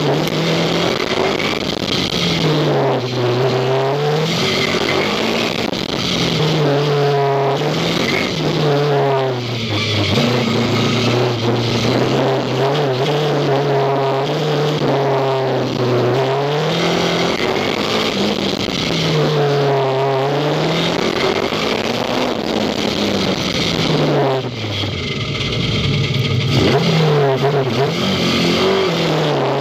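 Mini's engine revving up and falling back again and again as the car is driven hard through a slalom of cones, the pitch swinging with each burst of throttle. About three-quarters of the way through the engine note briefly drops away before picking up again.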